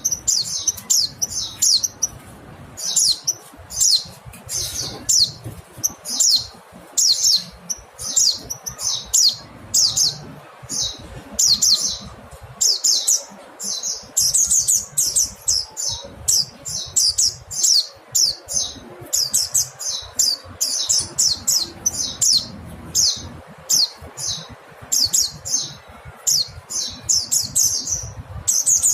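Mountain white-eye (Zosterops montanus) calling: short, high chirps in quick runs, several a second, with hardly a break.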